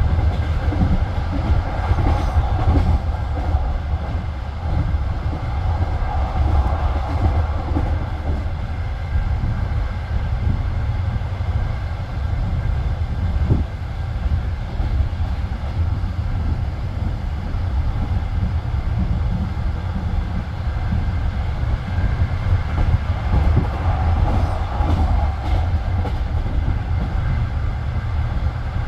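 Passenger train carriage rolling on the rails, heard from inside the car: a steady low rumble of wheels on track, with scattered wheel knocks over rail joints.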